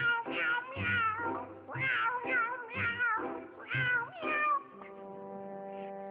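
A cat meowing over and over, about seven short calls that bend up and down in pitch. After about four and a half seconds the meows stop and music with long held notes comes in.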